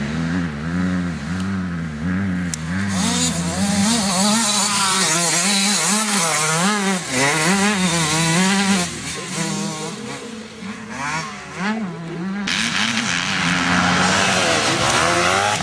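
Motocross bikes racing, their engines revving up and falling back again and again as they work the throttle around the track, more than one engine heard at once. About twelve seconds in the sound turns suddenly harsher and hissier.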